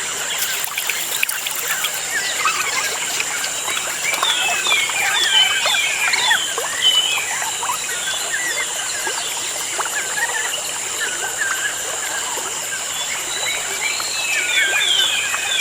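A chorus of birds chirping, with many short quick calls that are busiest a few seconds in and again near the end, over a steady high-pitched drone.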